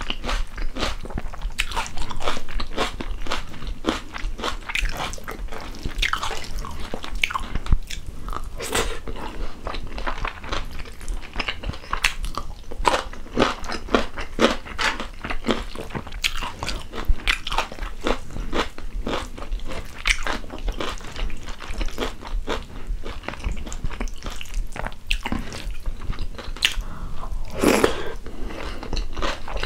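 Close-miked chewing and biting of a mouthful of rice and chicken stew, with irregular wet mouth clicks and smacks throughout and a louder bite near the end.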